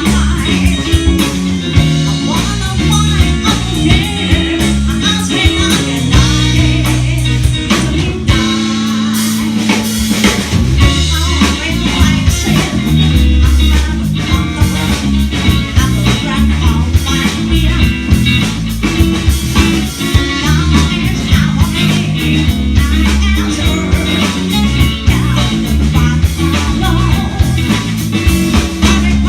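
A rock band playing a song with guitar, bass and drums, with singing.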